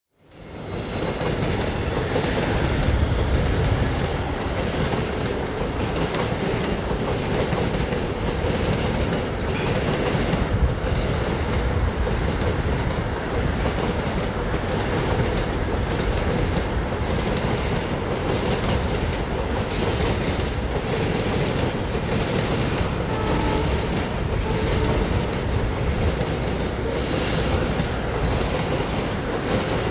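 Container freight train rolling past: steady noise of its wheels running on the rails, with light clatter and a faint high wheel squeal that comes and goes in the second half. The sound fades in over the first second.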